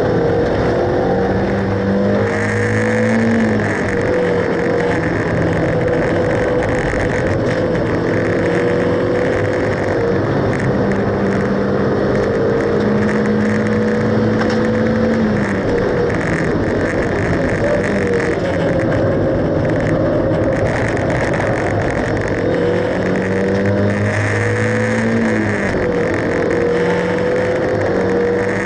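Mazda Roadster NA8C's 1.8-litre four-cylinder engine heard from inside the cabin, pulling hard on a circuit lap, with road and wind noise. The engine note climbs in long pulls and drops sharply three times as the driver lifts or changes gear.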